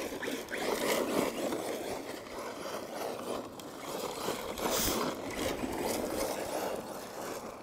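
Arrma Mojave 4S BLX RC truck driving over loose dirt and gravel: a rough rush of tyre and motor noise that swells and eases as it runs.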